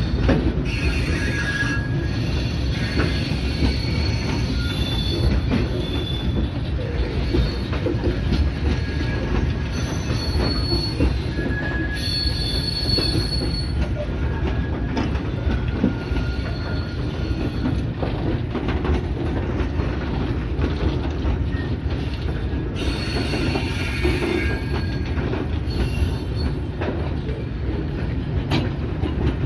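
Pakistan Railways freight train's high-sided steel wagons rolling past close by: a steady rumble and rattle of wheels on rail. Brief high-pitched wheel squeals come and go.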